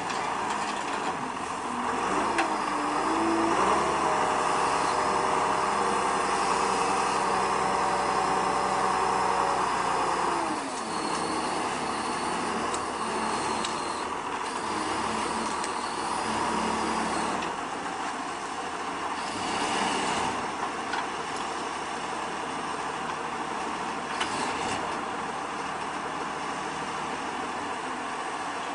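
Heavy engine of the machinery loading crushed cars onto a flatbed truck, running steadily. It revs up about three seconds in, holds there, and drops back to idle about ten seconds in. A few faint knocks come later.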